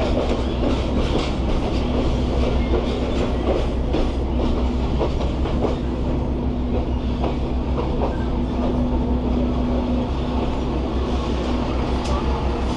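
PeruRail passenger train running along the track: a steady low rumble and hum, with frequent short clicks and rattles from the wheels and carriage.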